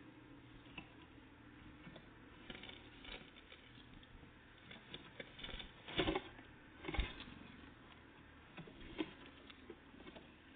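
Scattered light taps and clicks of small birds, tits, pecking and hopping at a feeder, with two louder knocks about six and seven seconds in.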